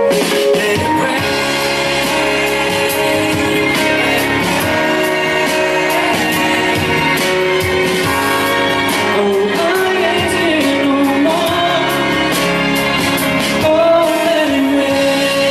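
Live pop song with singing over an amplified backing track and a steady beat.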